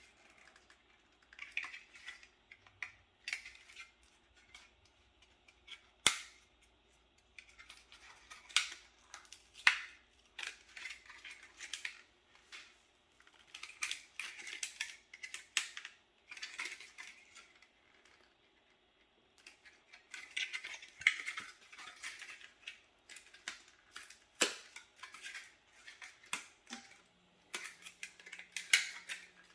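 Irregular clicks, knocks and scraping of plastic and metal parts being handled as a desktop PC is taken apart, with a sharp click about six seconds in and a short pause around two-thirds of the way through.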